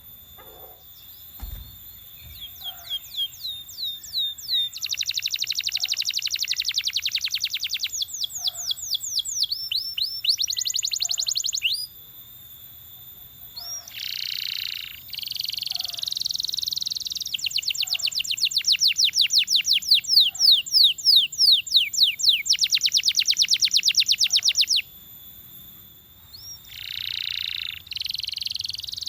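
Belgian canary singing a long song of rapid trills: fast runs of repeated down-slurred notes alternating with dense, buzzing rolls, broken by short pauses. A single low thump comes about one and a half seconds in.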